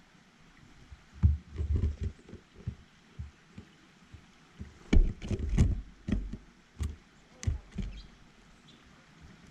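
Birds landing and pecking at a seed feeder close to the microphone: irregular knocks and thumps in clusters, with a few sharp clicks. The busiest cluster comes about halfway through.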